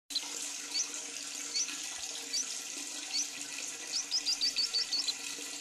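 Lovebird chirping: single short rising chirps about once every second, then a quick run of about eight chirps just after four seconds in, over a steady hiss.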